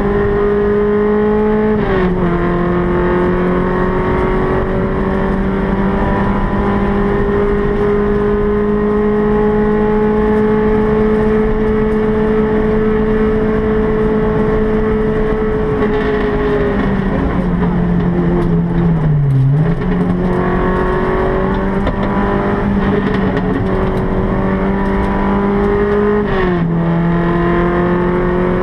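The four-cylinder engine of a Volkswagen Golf Mk1 rally car, heard from inside the cabin, held at high revs under way. Its pitch steps down at gear changes about two seconds in and again near the end. Just past the middle it sags low for a moment, then climbs back.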